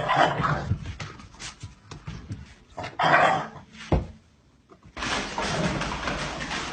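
A pet animal making short cries in bursts, with a steadier noisy background after about five seconds.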